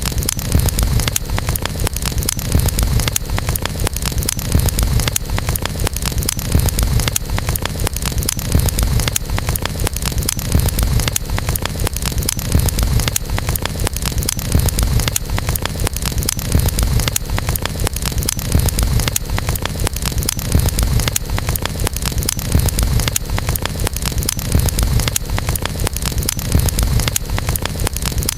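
Campfire burning: dense, steady crackling and popping over a low rumble.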